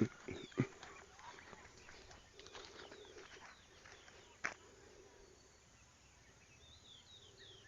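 Quiet rural outdoor ambience with faint birds chirping, short falling calls near the end, and a few sharp knocks near the start and one about halfway through.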